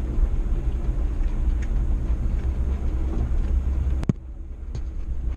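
Old pickup truck's engine and tyre rumble while driving on a dirt road, a steady low drone. About four seconds in, a sharp click, and the rumble drops to a quieter level.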